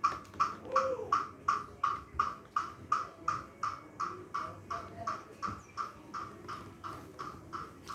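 A bird calling in a fast, even series of short, identical notes, about three a second, slowly growing fainter.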